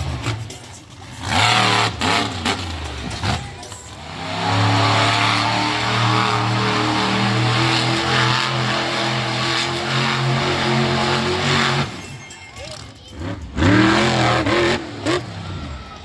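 Monster truck engine revving hard, its pitch sweeping up and down, then held at high revs for about eight seconds before dropping and revving again near the end.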